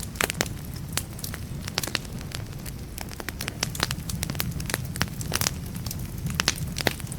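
Wood fire burning in a fireplace: a steady low rumble of flames, with frequent sharp, irregular crackles and pops from the burning logs.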